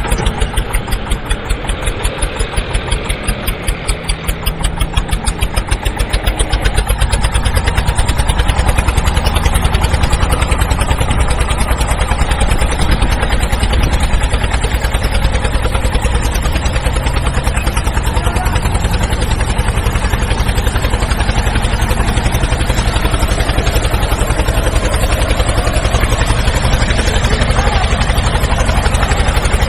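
Tractor engine running with a steady, even chugging; about six seconds in it grows louder and deeper and then holds steady.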